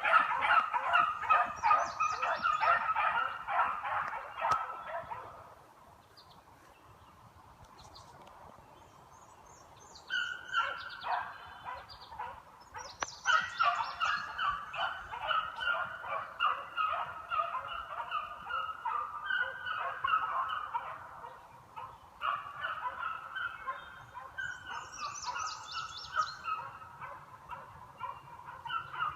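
A pack of beagles baying in rapid, overlapping barks while running a trail. They fall quiet about five seconds in and start up again about ten seconds in.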